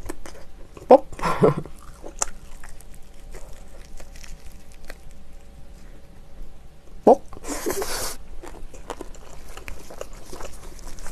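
Close-miked biting and chewing of saucy fried chicken, wet and crunchy, with two sharp louder bites about a second in and another about seven seconds in. A short hiss follows that last bite.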